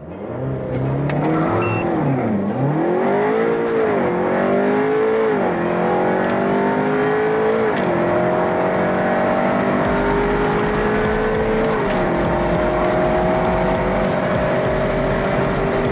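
The Stage 2-tuned Seat Leon Cupra 300's turbocharged 2.0-litre four-cylinder, with an aftermarket downpipe, pulling at full throttle through the gears from a launch. The pitch climbs and falls back at each upshift: quick shifts a second or two apart at first, then longer pulls in the higher gears.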